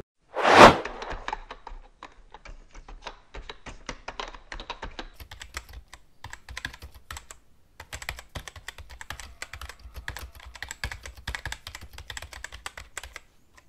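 A short whoosh about half a second in, then typing on a computer keyboard: quick runs of clicking keystrokes with a couple of brief pauses.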